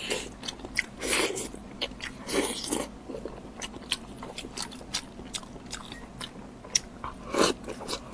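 Close-miked mukbang eating sounds: a person biting and chewing food, with irregular sharp mouth clicks and short bursts of chewing noise.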